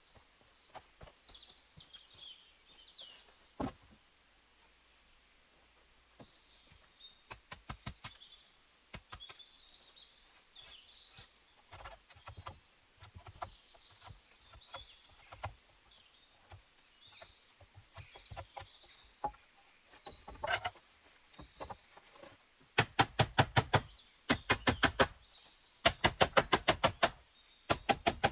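Small birds chirping, with scattered light knocks. Near the end come four quick runs of rapid, sharp clicking, each about a second long and much louder than the birdsong.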